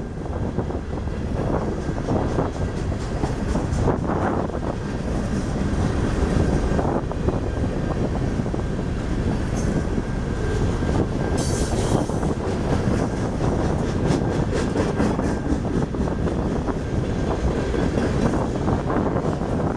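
Freight cars of a BNSF manifest train rolling past: a steady rumble of steel wheels on rail, with repeated clicks.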